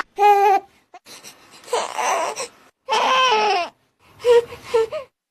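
An infant crying in short, breathy bursts, about four cries with gasps between them. These are the 'heh' cries that the Dunstan baby language reads as a sign of discomfort.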